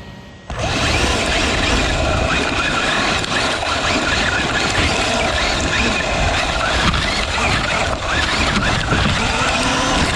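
Onboard sound from a GoPro mounted on the back of a radio-controlled car being driven: a dense, steady rushing noise of the running car and air over the camera that starts suddenly about half a second in.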